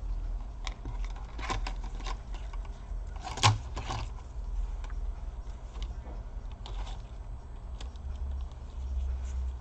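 Light clicks and taps of small laptop parts being handled during reassembly, with one louder knock about three and a half seconds in.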